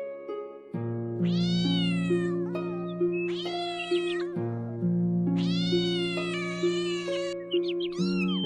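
A cat meowing three times in long, drawn-out meows, the last one the longest, then a few short, quick high calls near the end. Background music with a steady bass line and a repeating melody plays underneath throughout.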